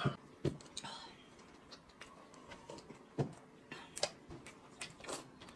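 Eating and drinking noises: sips and chewing, with several light clicks and knocks of glass jars and chopsticks against the table and plate.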